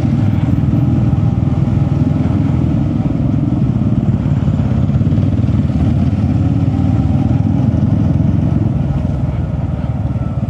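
Steady, loud rumble of a motorcycle ride at cruising speed: engine, tyres and wind on the microphone. It eases slightly near the end.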